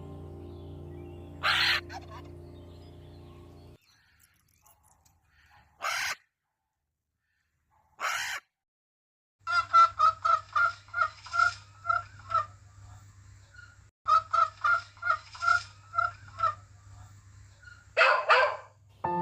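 Poultry calling: a few single sharp calls, then two runs of rapid, evenly paced calls, about three to four a second, and two loud calls near the end.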